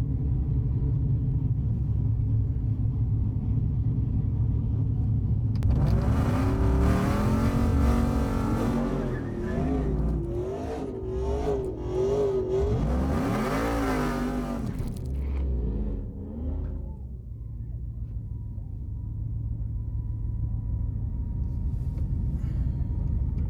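A race truck's engine running hard on a drag strip: from about six seconds in, a loud engine sound whose pitch climbs, wavers and climbs again, fading out by about fifteen seconds. A steady low engine rumble runs underneath throughout.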